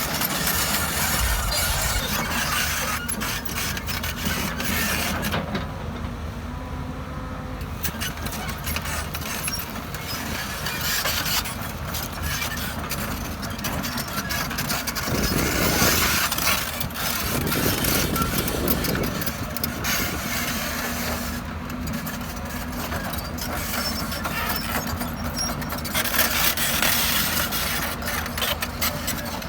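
Hydraulic excavator's diesel engine running steadily, swelling louder for a few seconds in the middle.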